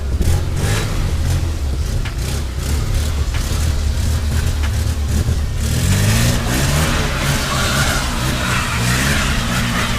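Car engine running, then revving and accelerating from about halfway through, its pitch climbing, with road and rushing noise building alongside.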